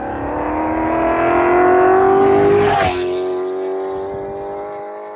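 A car engine accelerating hard at full throttle, its pitch climbing steadily, then a sharp crack and a drop in pitch as it shifts up a gear about three seconds in, after which it pulls on and climbs again while growing fainter.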